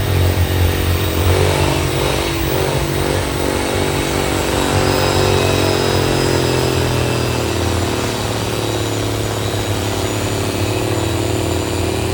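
Pulling tractor's diesel engine running hard under full load as it drags the sled down the track. The pitch wavers, sags through the second half and climbs again near the end.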